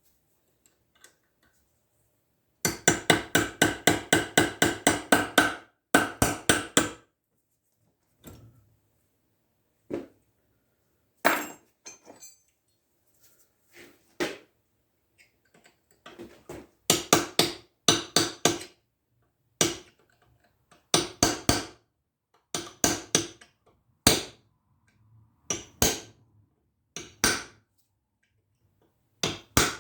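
Hammer driving a blunt chisel against a piece stuck inside a steel shell mill held in a vise, trying to knock it loose. A rapid run of about six blows a second near the start, then a shorter run and single or paired strikes with pauses between.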